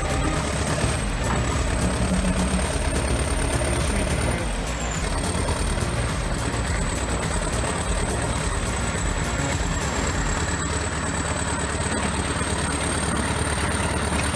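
Heavy diesel engine of a T-130 crawler bulldozer running hard under load as it tows a truck up a steep slope: a steady low rumble with a thin high whine over it.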